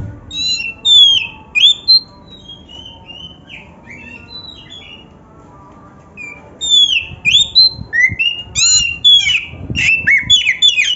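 Oriental magpie-robin (kacer) singing a varied song of sharp whistled notes and quick down-slurred phrases. It is loud at first, softer through the middle, then a loud, rapid run of phrases from about six seconds in.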